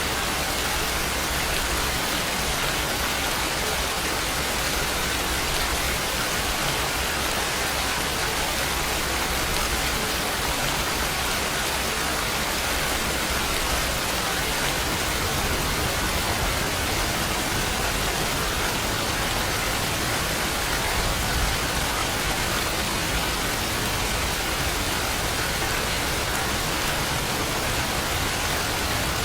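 Steady rain, an even hiss of falling drops that holds at one level throughout.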